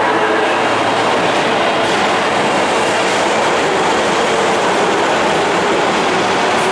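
Osaka subway train running along the platform of an underground station, its wheels clattering steadily on the rails.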